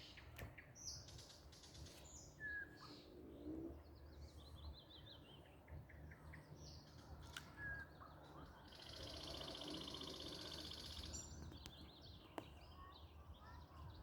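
Faint songbird chorus at a pond: several birds chirping and whistling, one falling run of notes, and a steady buzzing trill lasting about two seconds past the middle, over a low background rumble.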